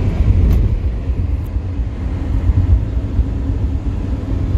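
Steady low rumble of a car driving, heard from inside the cabin, with two faint ticks in the first couple of seconds.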